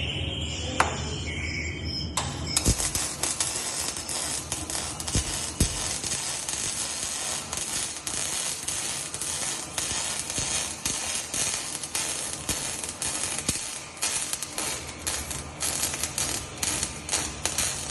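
Welding arc struck about two seconds in, then burning with a steady crackling hiss broken by irregular sharp pops.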